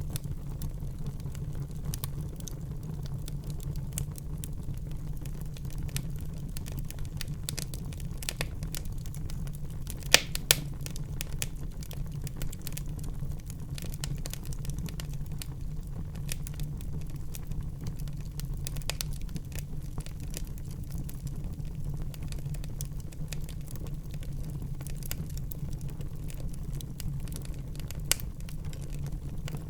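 Wood fire burning in a fireplace: a steady low rumble of the flames with scattered sharp crackles and pops, the loudest pops about ten seconds in and again near the end.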